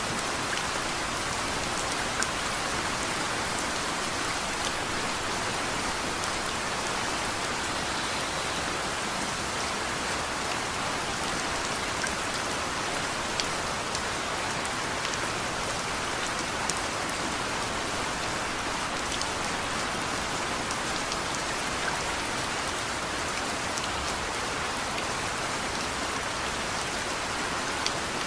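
Steady rain falling, an even hiss with a few louder single drops ticking here and there. No thunder is heard.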